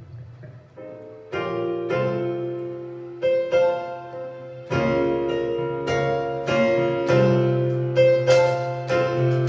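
Piano playing slow sustained chords over a bass line, starting about a second in and gradually building.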